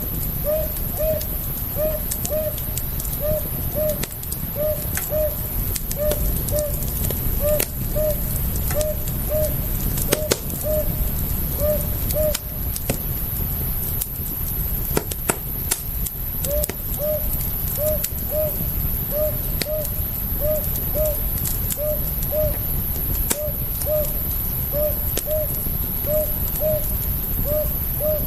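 Campfire crackling with scattered sharp pops over a steady low rumble. A short low call repeats in pairs about twice a second, breaking off for about four seconds partway through.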